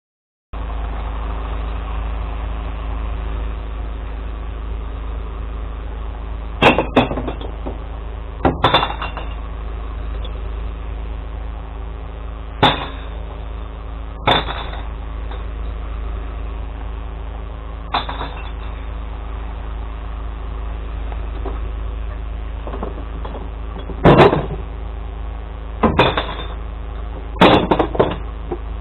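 Glass recycling truck's engine idling steadily, with about eight loud crashes of glass bottles being tipped into the truck's colour-sorted bins, a few seconds apart.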